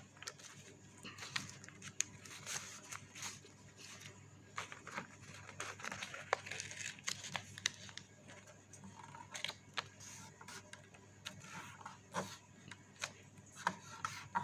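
Coloured chart paper being folded in half and creased by hand: scattered short rustles and crackles of the paper.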